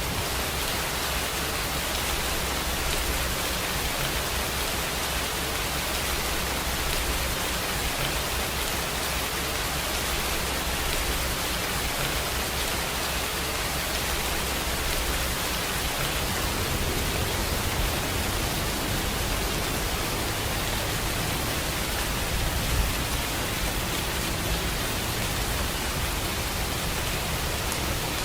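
Steady rainfall: a dense, even hiss of rain with no let-up, with one slightly louder drop or patter about three quarters of the way through.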